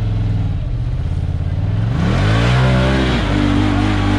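Side-by-side UTV engine running steadily, then revving up about two seconds in, with the pitch climbing, dipping and holding higher as the machine pulls.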